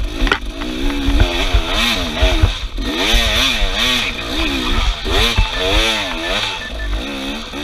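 Off-road vehicle engine revving up and down over and over, its pitch rising and falling about once a second as the throttle is worked, with low rumbling thumps underneath.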